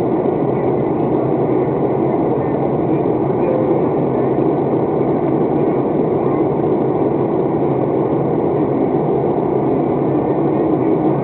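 Steady cabin noise of an airliner in flight: the even, unchanging sound of the engines and the air rushing past the fuselage, heard from inside the cabin.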